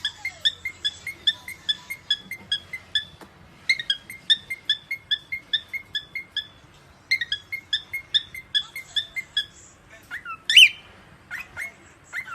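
A pet bird calling in three runs of short, evenly spaced chirps, about three a second, then a few louder rising whistled calls near the end.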